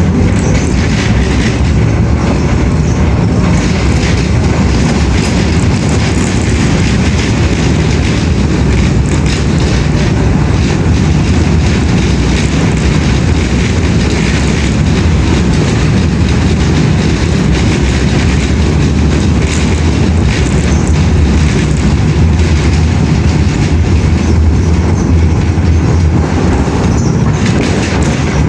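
A moving train: a loud, steady rumble, heaviest in the low end.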